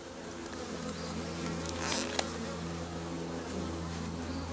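Honey bees humming steadily around an open hive, a colony's massed wingbeats in a steady pitch. A brief rustle and click about two seconds in.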